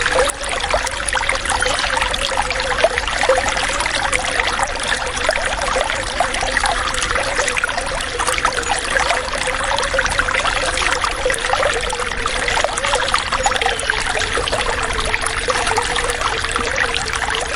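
Flowing water, a steady loud trickling and splashing.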